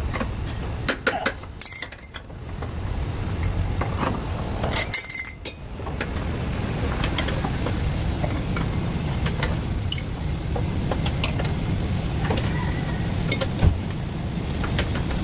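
Scattered sharp metallic clinks and taps of hand tools on car suspension parts, over a steady low rumble.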